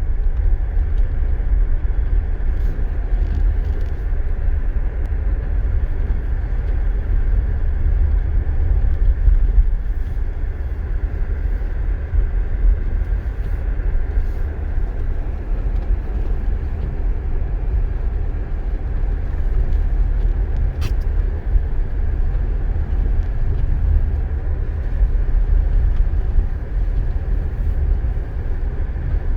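A car driving steadily: a continuous low rumble of engine and tyres on the road.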